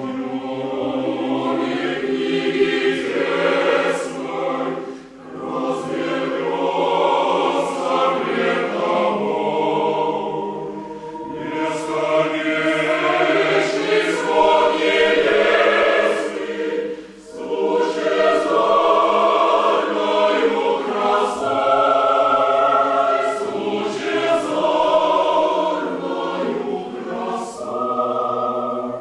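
A choir singing. The phrases break briefly about five seconds in and again around seventeen seconds, with crisp sung consonants throughout.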